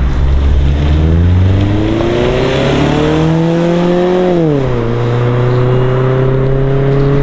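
A 2015 Scion tC's 2.5-litre inline-four on its stock exhaust, accelerating away. The engine note rises for about four seconds, drops at an upshift, then climbs slowly again.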